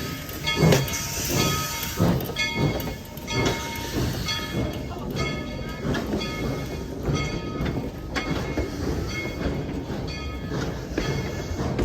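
Steam locomotive No. 190 working a train, with its exhaust chuffing in steady beats about every 0.7 s and a bell ringing in a steady rhythm. The running rumble of the train builds toward the end.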